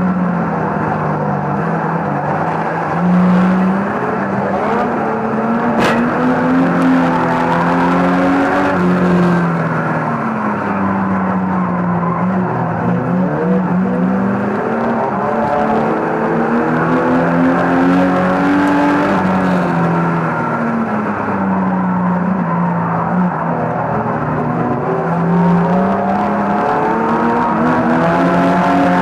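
Banger race car engine heard from inside the cabin, revving up and dropping back again and again, every few seconds, as it laps the oval. A single sharp knock about six seconds in.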